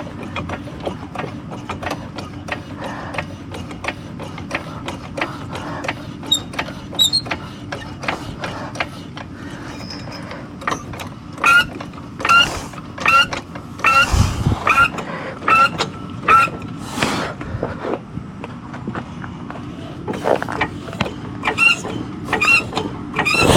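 A car jack being worked to lift the car, with repeated metallic clicks and creaks and a squeak on each stroke, a little faster than one a second, through the middle and again near the end.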